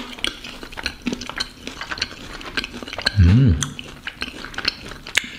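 A person chewing a gummy sweet potato and coconut dumpling, with many small wet mouth clicks and a short hummed 'mm' a little after three seconds in.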